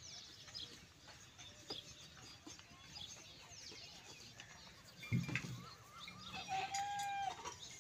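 Faint outdoor ambience with birds chirping in short scattered calls, a brief low sound about five seconds in, and a short held call near the end.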